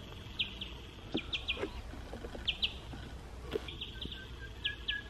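Wild birds calling: short high chirps, each sliding downward, in twos and threes every second or so, with a thin broken whistle-like note near the end.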